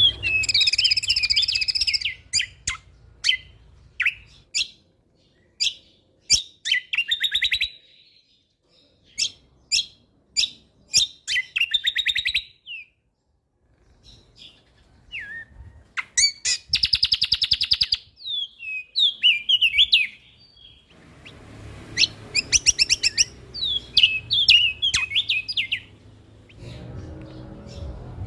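A songbird singing in loud runs of sharp chirps, rapid trills and quick whistled sweeps, with short pauses between phrases. It is a busy, varied 'full isian' song of the kind used to tutor cage birds.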